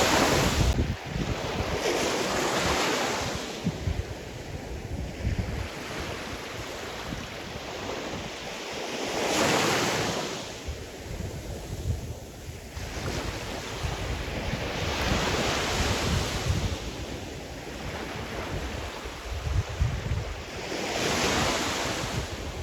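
Sea surf breaking on the shore, swelling and falling away about every five to seven seconds, with wind buffeting the microphone in low gusts.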